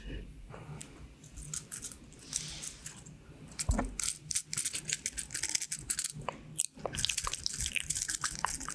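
Pins of a pin art toy sliding and clattering against each other: a dense patter of small, crisp clicks, like Skittles or beads, getting busier in the last couple of seconds. There is one low thump about halfway through.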